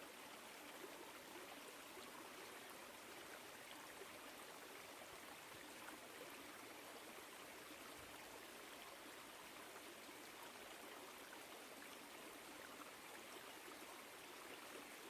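Small woodland stream flowing and trickling over rocks, a faint, steady rush of water.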